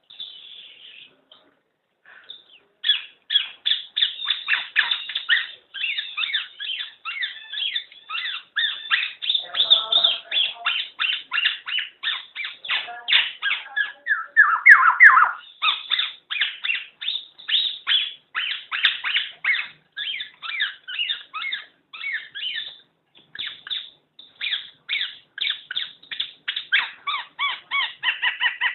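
Black-naped oriole (kepodang) calling in a fast run of short chattering notes, about five a second. The run starts after a brief pause near the beginning and carries one louder sweeping note about halfway through.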